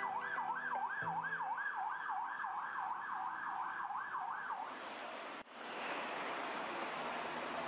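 Emergency vehicle siren on a fast yelp, sweeping up and down about three times a second, stopping after about four and a half seconds. Steady street traffic noise follows.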